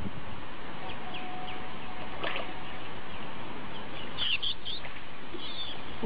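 Birds giving short high chirps over a steady background hiss, with a quick cluster of chirps about four seconds in and another near the end.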